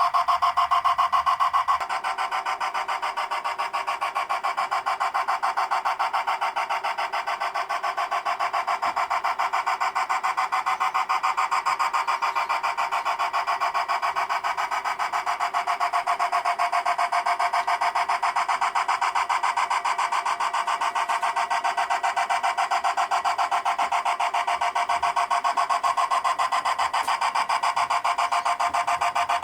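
G scale model train running on 45mm track: the locomotive's motor and gear drive and the rolling wheels make a steady, fast buzzing rattle that holds on with little change, shifting slightly about two seconds in.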